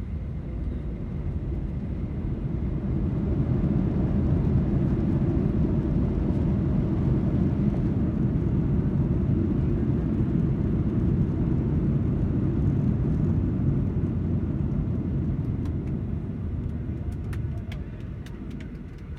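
Airliner cabin noise: a deep rumble of the jet engines and rolling aircraft that swells loud a few seconds in, holds steady, then dies away near the end.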